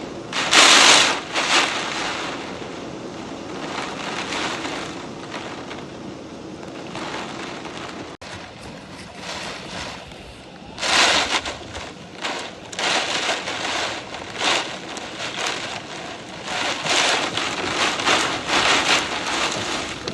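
Thunderstorm wind and rain rushing in gusts, with loud surges about a second in and again through the second half.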